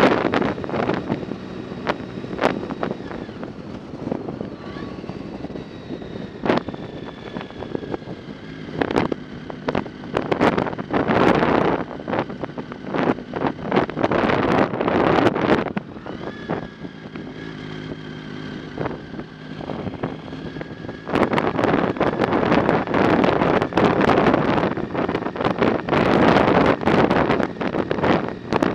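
Wind buffeting the microphone while riding a bicycle, with scattered knocks and rattles; the buffeting turns loud and constant about three-quarters of the way through.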